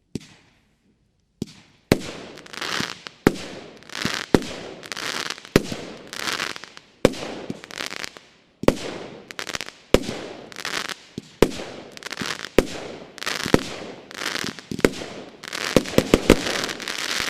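Bonfireworks Whispering Waves, a 25 mm, 16-shot consumer firework battery, firing its shots one after another. Each sharp launch thump comes roughly once a second and is followed by a fading crackling hiss from the burst, with several shots in quick succession near the end.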